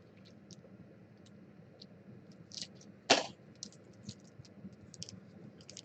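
Trading card packs and wrappers being handled, with faint scattered clicks and light rustles. There is one short, sharp noise about three seconds in.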